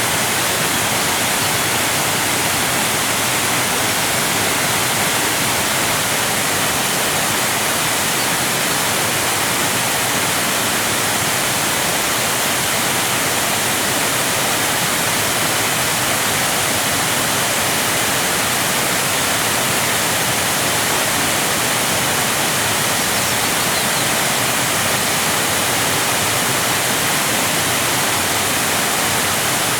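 Waterfall: water cascading in a steady, unbroken rush that is mostly hiss, with little low rumble.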